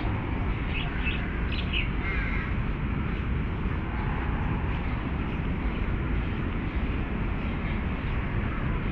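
Birds calling a few short times in the first couple of seconds, over a steady low rumble of city traffic.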